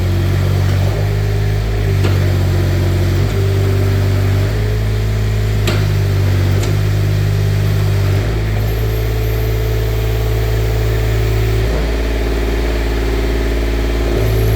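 Kubota engine of a Manitou TMM 45 truck-mounted forklift running, its note shifting in steps every few seconds as the hydraulic mast functions load it. Two sharp clicks about six seconds in.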